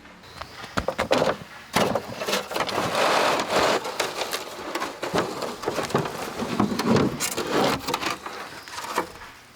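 Bamboo being worked by hand: a dense, irregular run of knocks, cracks and rustling.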